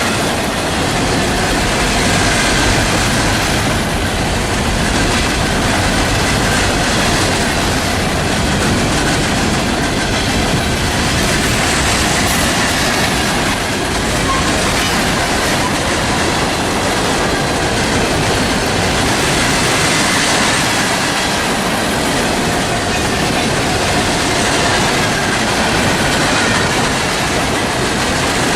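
Norfolk Southern freight train rolling past, a loud steady rumble and clatter of railcar wheels over the rails, with a faint wheel squeal in it.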